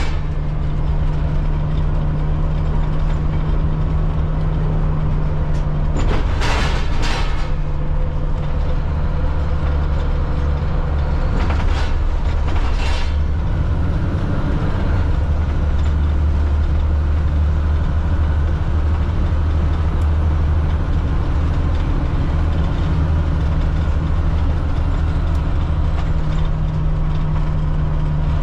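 Caterpillar C7 diesel engine of a Blue Bird All American FE school bus running steadily, with two short bursts of noise about six and twelve seconds in.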